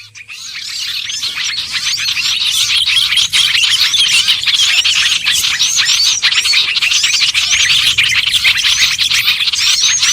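A dense chorus of many small songbirds chirping and calling over one another, a bird-lure recording of small birds such as bulbuls and sunbirds. It fades in over the first second, then keeps up a busy, unbroken stream of quick, high chirps and short whistled notes.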